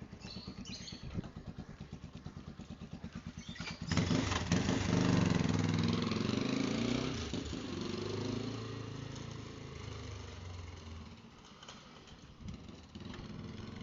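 Motorcycle engine idling with a fast, even pulse. About four seconds in it suddenly gets much louder, then fades gradually over the next several seconds.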